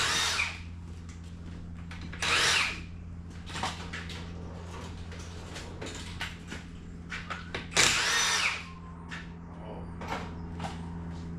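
Power tool run in three short bursts of about half a second each, near the start, a couple of seconds in and about eight seconds in, with lighter clicks and knocks of tool handling between them and a steady low hum underneath.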